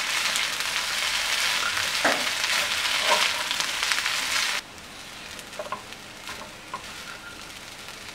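Basmati rice and vegetables sizzling in a hot pan while a silicone spatula stirs and tosses them. The sizzle drops suddenly to a much quieter hiss a little past halfway, with a few light scrapes.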